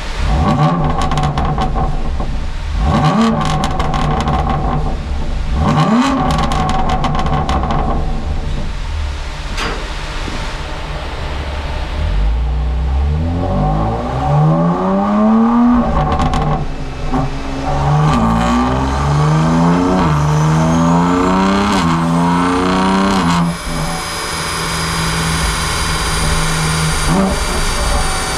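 BMW M2 Competition's twin-turbo straight-six, breathing through an equal-length resonated midpipe and downpipes, revved on a chassis dyno. There are three quick rev blips with crackles, then a longer climb in revs and a series of rising pulls with drops between. Near the end it settles to a steady drone with a high whine.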